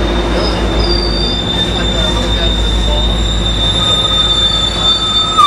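Coaster commuter train with its F40PHM-2C diesel locomotive rolling slowly past, a steady low engine and rail rumble under a thin, high wheel squeal held throughout.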